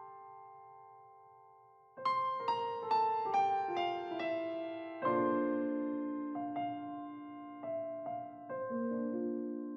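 Background piano music: a held chord fades out, then about two seconds in a quick run of notes steps downward, followed by a new chord and slower single notes.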